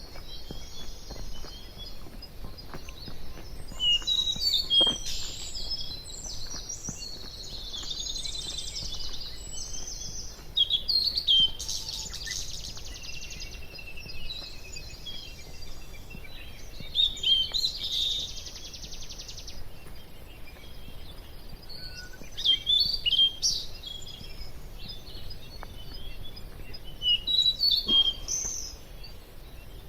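Several wild birds chirping and singing in short, busy bursts of high calls and trills, over a steady low background noise.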